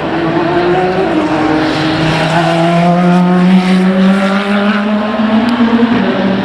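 Endurance race car's engine accelerating past on track, its pitch climbing steadily through a gear, with a shift and a drop in pitch near the end.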